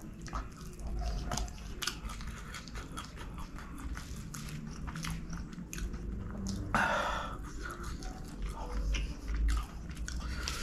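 Close-miked wet chewing and mouth clicks of someone eating chicken kottu by hand, with one louder rushing noise about seven seconds in.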